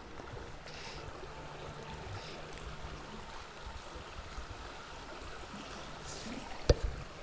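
River water running steadily, with a single sharp knock near the end.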